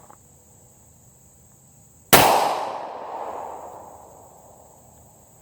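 A single shot from a Glock 19 9mm pistol about two seconds in: one sharp crack followed by a long echo that dies away over about three seconds.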